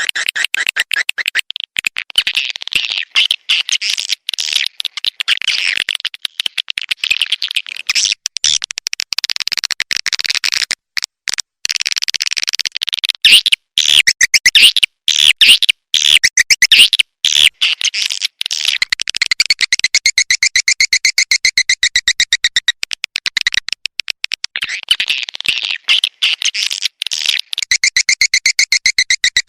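Edible-nest swiftlets' rapid, high-pitched twittering and clicking chirps, a recorded swiftlet lure call of the kind played to draw swiftlets into a nesting house. The chirps come in quick, dense runs, turning to a steadier twitter about two-thirds of the way through and again near the end.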